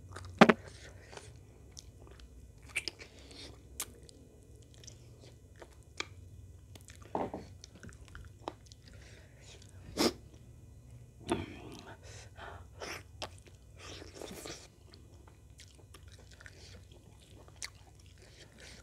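Close-miked eating sounds of chicken and rice eaten by hand: wet chewing, lip smacks and scattered sharp clicks. The loudest smacks come about half a second in and again around ten and eleven seconds.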